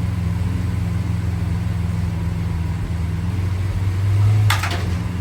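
Lamborghini Aventador's V12 engine idling as the car creeps backward, swelling briefly about four seconds in, with a short hiss just after.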